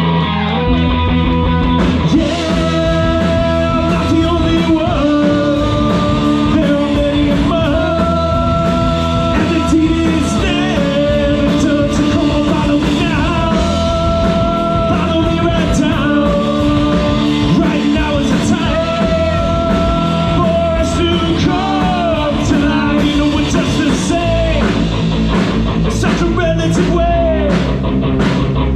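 Live rock band playing a song, with a lead singer holding long notes over guitar and drums.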